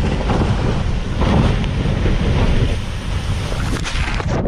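Loud, steady rushing of flowing water with wind buffeting the microphone. It cuts off abruptly near the end.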